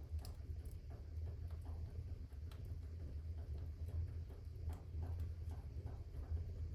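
Fire in a fireplace crackling: irregular small pops and snaps, several a second, over a steady low rumble.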